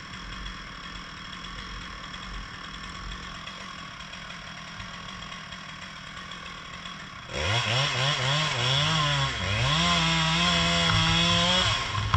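An engine idling steadily, then about seven seconds in a chainsaw starts up loud: it is revved up and down several times, then held at high speed for about two seconds before dropping off just before the end.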